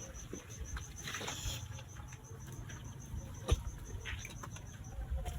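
A high insect chirp pulsing evenly, about seven times a second, stopping shortly before the end. Faint scattered clicks, a brief rustle about a second in and a sharper knock past the middle.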